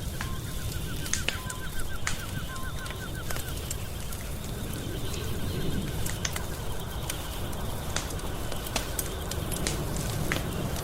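Wood fire crackling, with scattered sharp pops over a steady low rumble. A faint run of quick repeated chirps sounds through the first few seconds.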